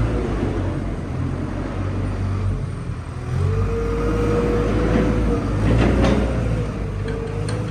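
Farm machine engine running with a steady low rumble. A mid-pitched whine comes in about three and a half seconds in and again near the end, with a couple of sharp knocks.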